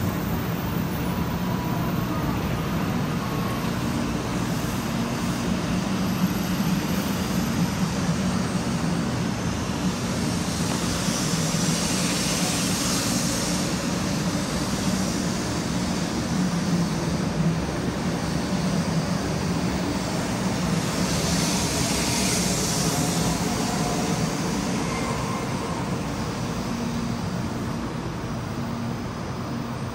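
500 Type Eva Shinkansen train with steady running and machinery noise, plus two rushes of hiss about ten seconds apart.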